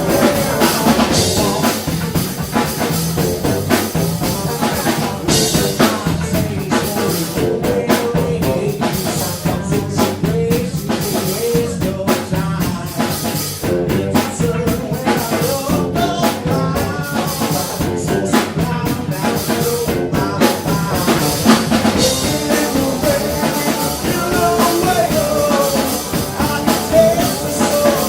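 Live rock band playing, with a drum kit keeping a steady beat under guitar and singing.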